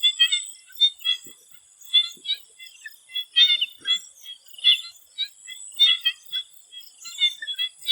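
A chorus of swamp frogs calling: many short, ringing calls in quick, uneven succession, several a second, over a faint steady high hiss.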